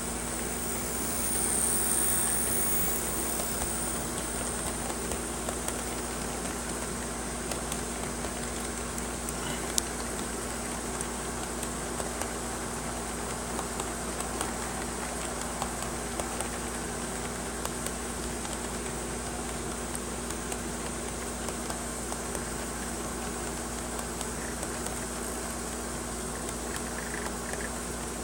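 HO scale model diesel locomotive (an SD50 with DCC) running on its track: a steady quiet motor whir with small clicks of the wheels over the rail now and then, a sharper click about ten seconds in, over the steady hum of an air conditioner. It grows louder briefly about two seconds in.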